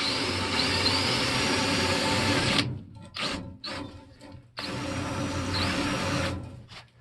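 Power tool fitted with a wire wheel, brushing a gas pipe fitting clean. It makes two long runs, the first of about two and a half seconds and the second of almost two, each spinning up with a rising whine. Short quick blips of the tool come in between.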